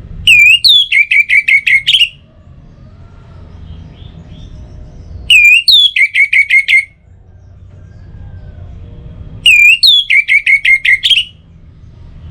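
Orange-headed thrush sound played as a looped lure: the same loud whistled phrase three times, about four seconds apart. Each phrase is one slurred note followed by a quick run of about eight clipped repeated notes.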